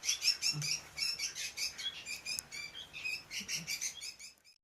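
A flock of captured small birds chirping in a dense, continuous chatter of short high chirps, several a second and overlapping. The chatter cuts off abruptly near the end.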